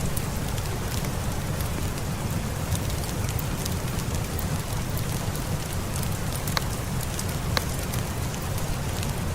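Steady heavy rain with a low rumble underneath and scattered sharp ticks of drops, two of them louder about two thirds of the way through.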